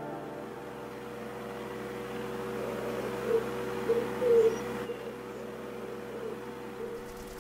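A bird's low cooing calls: a run of short coos through the middle, over a steady soft hum and hiss.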